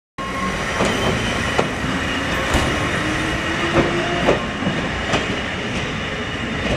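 Wakayama Electric Railway electric train running past and away along the track, its wheels clacking over rail joints about once a second. A motor hum rises in pitch near the middle.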